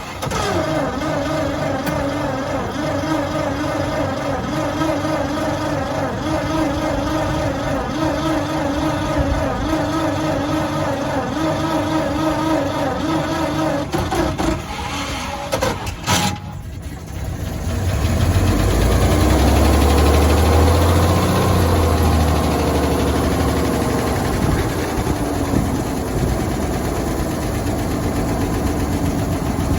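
1923 Buick Series 23 overhead-valve engine being started cold: the floor starter cranks it with a rhythmic wavering whine for about sixteen seconds, then after a short break the engine catches, runs up briefly and settles into a steady cold idle.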